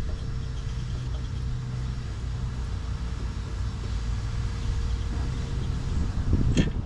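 A steady low rumble with a faint steady hum, and one sharp knock near the end.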